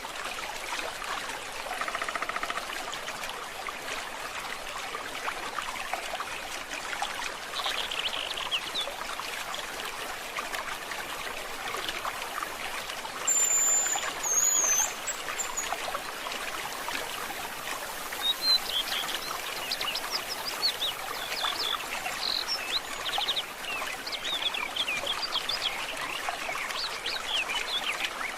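A small stream trickling steadily, with birds calling over it: a high whistled call about halfway through, and quick chirping that grows busier over the last ten seconds.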